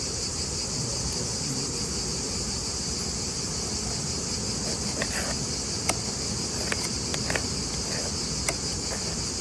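A steady, high-pitched insect chorus, with a few sharp clicks or snaps scattered through the second half.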